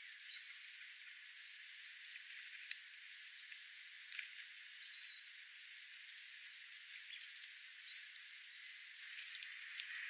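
Faint steady hiss with scattered light ticks and a couple of brief high chirps a little past the middle, from wild birds feeding on seed-strewn ground.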